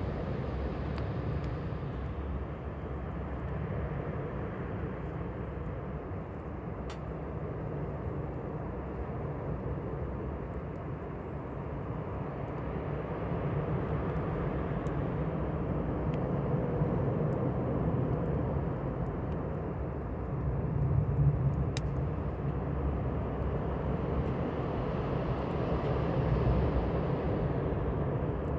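A steady low rumble with a campfire burning, giving a couple of sharp crackling pops, one about seven seconds in and one about twenty-two seconds in, and faint small ticks between.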